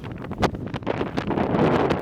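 Strong gusty wind buffeting the microphone, with a sharp knock about half a second in and a few lighter clicks.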